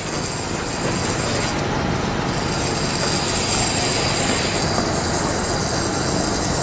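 Loaded open-top coal wagons of a long freight train rolling past at close range: a steady rumble of wheels on rail with a thin high tone running over it.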